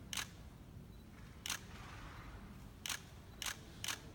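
Camera shutter clicking five times at irregular intervals.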